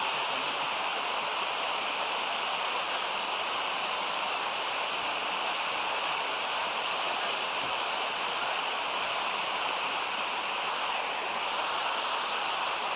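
Steady rush of a mountain stream tumbling down a cascade of small waterfalls, an even hiss-like roar of water that does not change.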